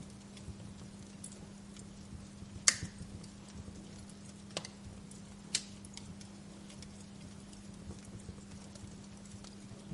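Wood fire crackling: a scatter of small ticks and snaps, with three sharper pops, the loudest a little under three seconds in and two more a couple of seconds later, over a steady low hum.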